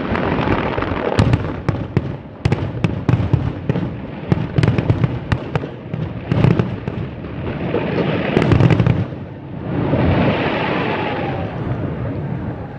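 Aerial fireworks display: a rapid run of sharp bangs and crackling over a deep rumble, then a softer swell that fades near the end.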